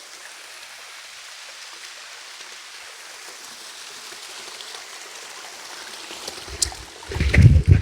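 Steady rushing of a small creek waterfall. Near the end, a few loud low thumps break in over it.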